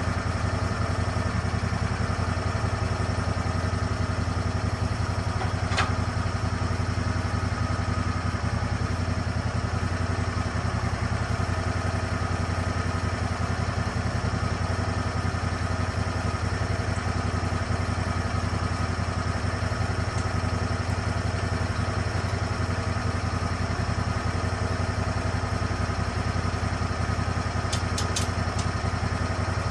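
Lucas Mill swing-blade sawmill's engine running steadily at an even speed. A sharp click comes about six seconds in, and a few quick clicks come near the end.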